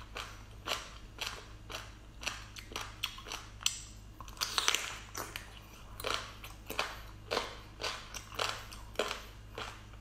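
Close-miked chewing and biting of a soft, gelatinous, sauce-coated food, a short sharp chew sound about twice a second, with a longer noisy stretch a little before the middle. A steady low hum lies underneath.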